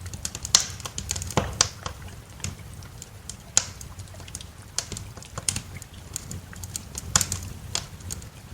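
Wood fire crackling in a fireplace: irregular sharp pops and snaps, a few a second, some louder than others, over a steady low rumble.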